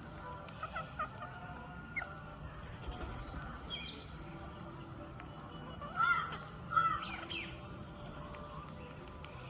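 Rose-ringed (Indian ring-necked) parakeets calling in short, scattered chirps and squawks, with two louder calls about six and seven seconds in.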